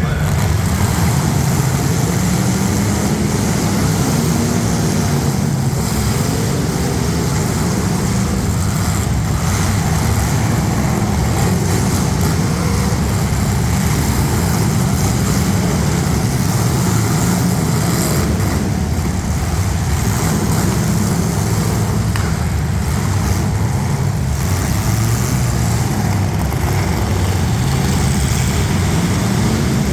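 Engines of demolition derby street stock cars running and revving together, loud and continuous.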